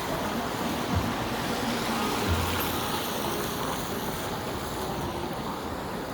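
City street traffic: cars passing on a wet road, with a steady hiss of tyres on the pavement.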